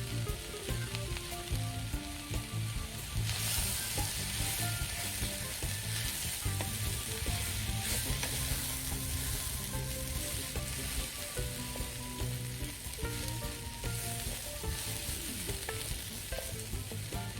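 Cabbage frying in butter in a pot, a steady sizzle with scattered small pops.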